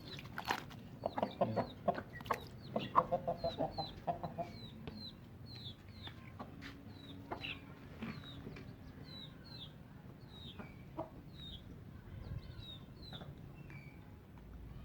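Chicks peeping with short, high, falling chirps, about two a second, while a hen clucks. Sharp taps come in the first few seconds.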